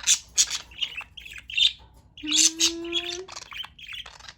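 Pet budgerigars chirping and squawking in quick, short calls. About two seconds in, a steady low held tone that rises slightly runs under the chirps for about a second.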